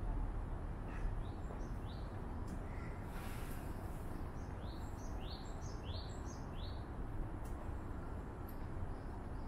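A small bird chirping: a few short rising chirps about a second in, then a quicker run of about six around the middle, over a steady low rumble.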